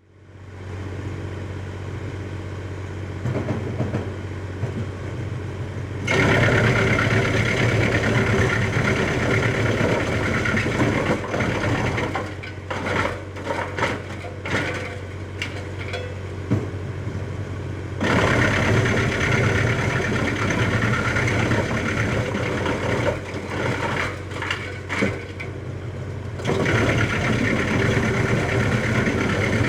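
REMET RT-630R disc wood chipper driven by a tractor, the engine's steady low hum underneath. From about six seconds in, wood being fed through and chipped makes a loud, rough noise that runs in long stretches, broken by choppy gaps.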